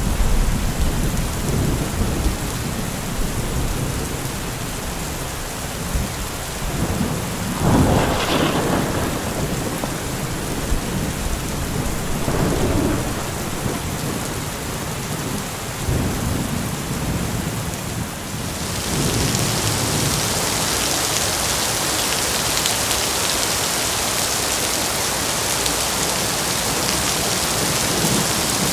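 Heavy rain with rolling thunder: low rumbles throughout, a louder thunderclap about eight seconds in and smaller rumbles after it. About two-thirds of the way through, the rain's hiss suddenly grows louder and stays that way.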